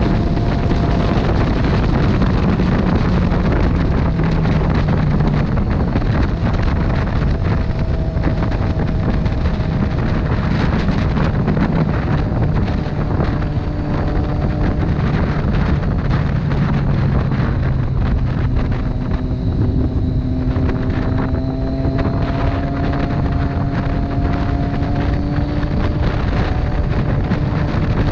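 Motorcycle engine running steadily at road speed, its note drifting slowly up and down, under heavy wind noise buffeting the microphone.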